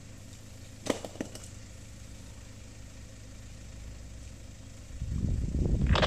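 A four-wheel drive's engine idling steadily, with two sharp knocks about a second in. About a second before the end a loud, uneven low rumble starts.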